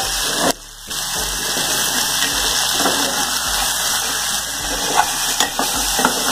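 Chopped snake gourd frying in an aluminium pot: a steady hiss of sizzling, with a metal spoon stirring and knocking against the pot a few times in the second half. The hiss drops out briefly about half a second in.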